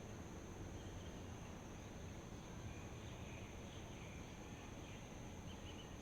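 Steady outdoor ambience: a constant high insect drone over a low, even hiss, with a few faint short chirps in the second half.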